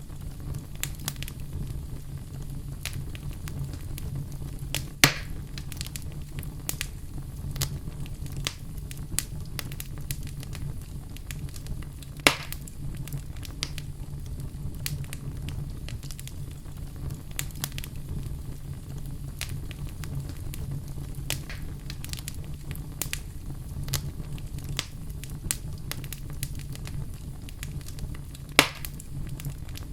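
Fire burning in a fireplace: a steady low rumble with frequent small crackles, and three louder pops, about 5, 12 and 28 seconds in.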